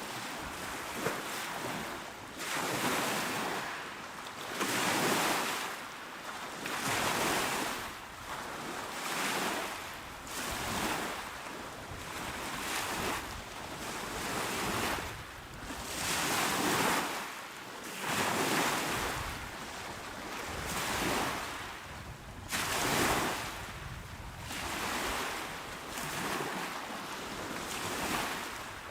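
Small, calm waves washing onto a shore, each swell rising and falling about every two seconds.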